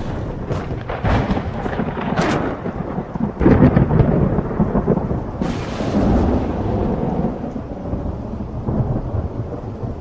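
Thunderstorm: loud rolling thunder with several sharp cracks, the strongest about three and a half seconds in, over a steady hiss of rain.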